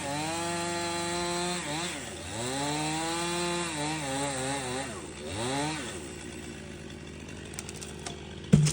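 Stihl MS 261 C two-stroke chainsaw ripping through wood at full throttle, its pitch sagging under load and recovering several times. After about six seconds it drops back to a lower idle, and a single sharp knock comes near the end.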